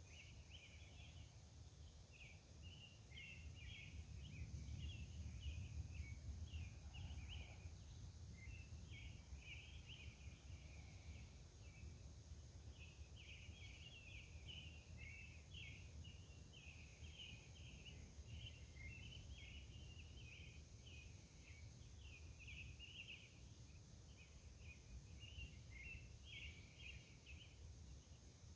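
Faint, continuous bird song of quick, irregular chirps, over a low rumble that swells a few seconds in and a steady thin high tone.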